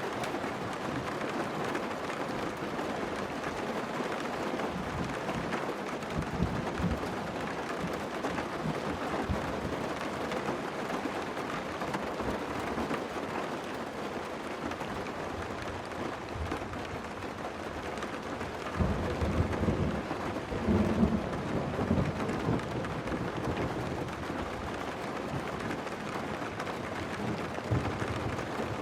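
Heavy rain falling steadily, with low rolls of thunder, the strongest about two-thirds of the way in.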